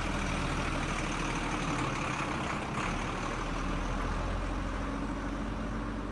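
Mini tractor's engine running steadily at low revs, easing off slightly toward the end.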